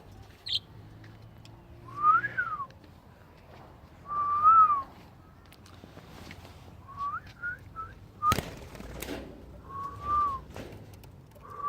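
A bird giving clear whistled notes, each a short rise and fall in pitch, spaced a couple of seconds apart, with a quick run of short whistles in the middle. A few brief high chirps are mixed in, and there is one sharp click about eight seconds in.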